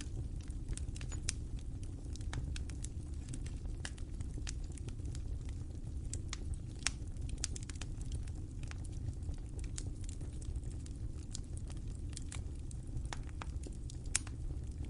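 Wood fire crackling in a fireplace: a steady low rumble of flames with irregular sharp pops and snaps, a few louder ones about a second in, near the middle and near the end.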